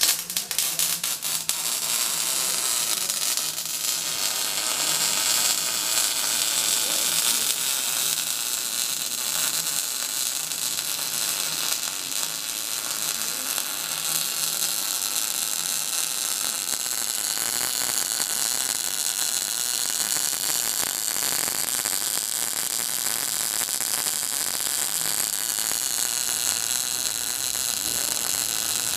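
Electric arc welding: the arc strikes at the start and then runs with a steady crackling hiss, a faint electrical hum underneath.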